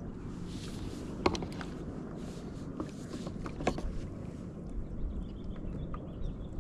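Handling noise on a paddleboard with fishing gear: a low rumble with scattered small knocks. Two sharp clicks stand out, about a second in and just before four seconds.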